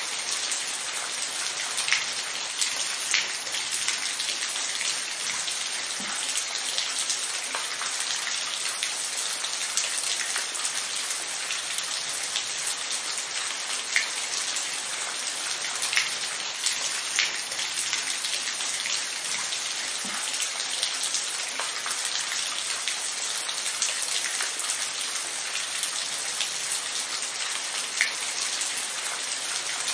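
Steady rain, a constant hiss with scattered sharp drops ticking on a surface.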